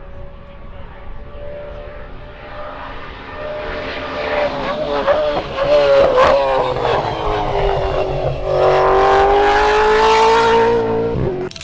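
Race car engines at high revs, passing. The note shifts pitch several times midway, then grows loudest and falls slowly in pitch over the last few seconds before cutting off abruptly.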